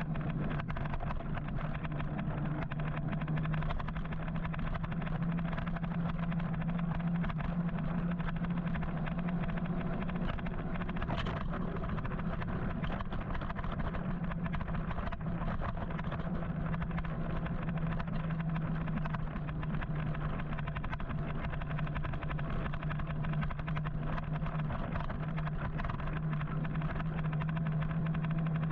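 Continuous road and traffic noise heard from a moving electric motorcycle in city traffic, with a steady low hum over it.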